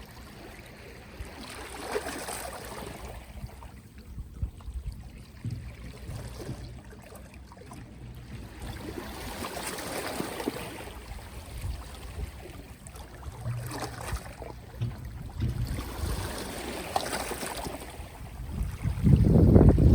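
Small, soft sea waves washing onto the shore, the wash swelling and ebbing every few seconds. A louder low rumble sets in near the end.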